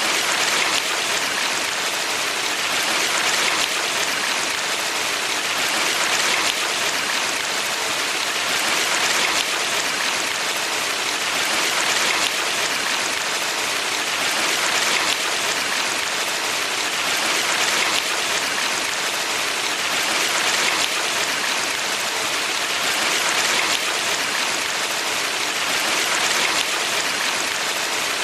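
A valley stream of water flowing and splashing, an even, steady hiss that swells gently about every three seconds.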